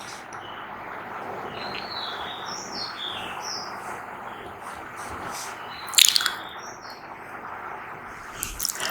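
Birds chirping in the background over a steady hiss, with one sharp cheek pop about six seconds in.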